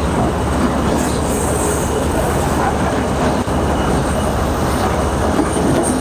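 Combine harvester running: a loud, steady mechanical din without a break.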